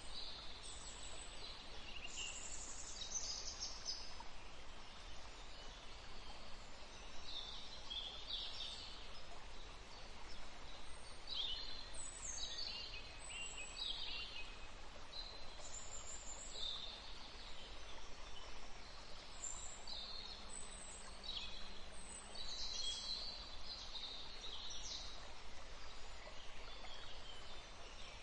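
Small birds chirping in the background, short high calls scattered through, many of them falling in pitch, over a faint steady low rumble.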